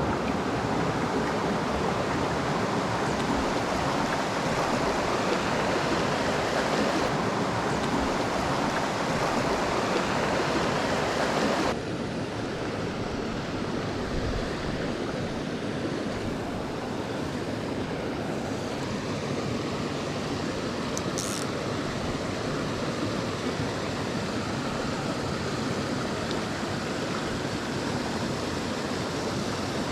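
Small mountain stream running over rocks, a steady rush of water. About twelve seconds in it drops suddenly to a softer, duller rush.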